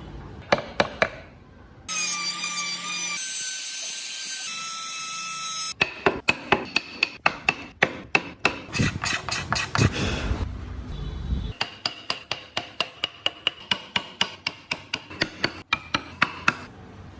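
Rapid, evenly spaced sharp taps of a mallet striking a wood-carving chisel, about four a second, in two long runs with a short break between them. Before the taps come a few seconds of steady high tones that step in pitch.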